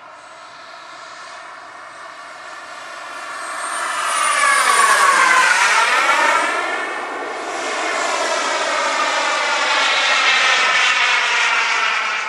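Gas turbine engine of a radio-controlled F-15 model jet, a high whine over a rushing jet noise, swelling as the jet passes close, loudest about five seconds in with a sweeping, whooshing change in tone, then swelling again towards the end.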